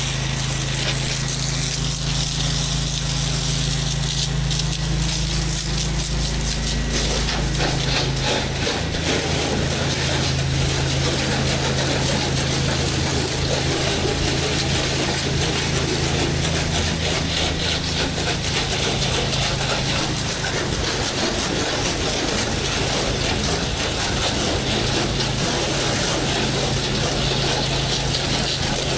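Pressure washer's engine running steadily under a constant hiss of high-pressure water spray; the engine note shifts about seven seconds in.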